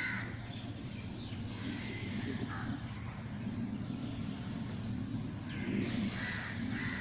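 Harsh bird calls, a couple of spells of them, over a steady low background rumble.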